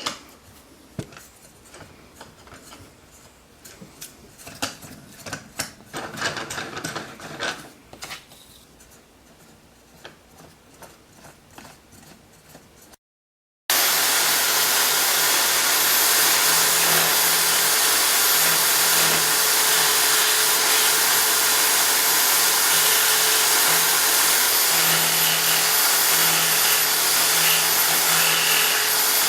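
Scattered light knocks and clicks of parts being handled and fitted, then, after a cut, an electric drill running steadily as the drive of a homemade mini lathe, with the scraping of a tool on the spinning wood.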